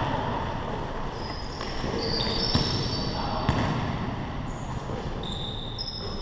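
Basketball bouncing during play, a few sharp knocks, with sneakers squeaking on the court in short, high-pitched squeaks.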